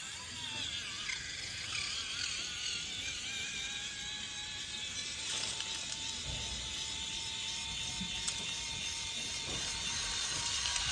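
Small electric motor and plastic gearbox of an RC toy tractor whining steadily, its pitch wavering in the first few seconds and then holding even.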